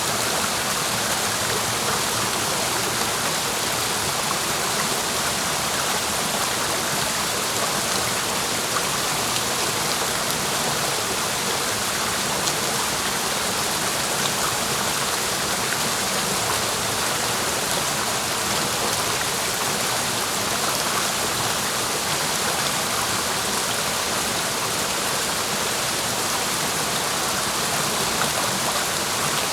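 Clear mountain stream rushing steadily over rocks, an even hiss of water.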